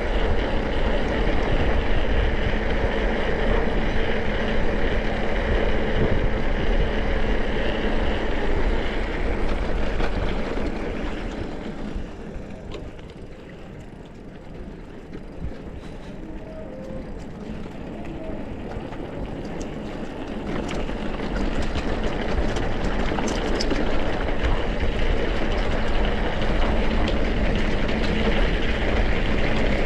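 Mountain-bike ride noise: wind rumbling on the camera microphone together with the tyres and rattle of the bike, easing off for several seconds in the middle and then building back up.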